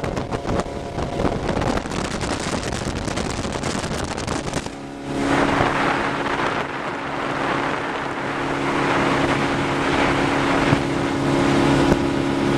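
Motorboat engine running under way, with wind buffeting the microphone. The sound dips briefly about five seconds in, after which the engine holds a steady hum over rushing wind and water.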